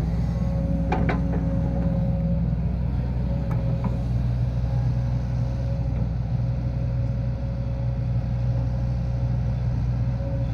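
Tractor diesel engine running steadily under load, with a constant low drone. A brief high squeak comes about a second in and again near four seconds.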